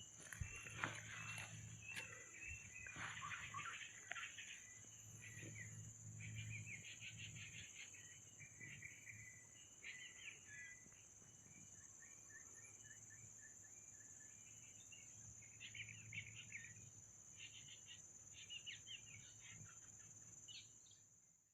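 Faint forest birdsong: scattered quick chirps and short trills from birds, over a steady high-pitched drone.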